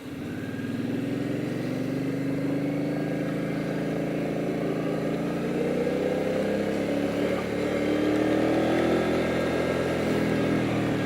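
Motorcycle engine accelerating, its pitch rising over the first two seconds, then running fairly steadily and climbing slowly again in the second half.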